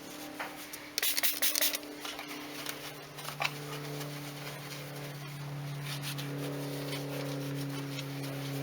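A trigger spray bottle of interior cleaner giving a short hissing spray about a second in, among small clicks and rubbing of handling. A steady low hum sets in a few seconds later.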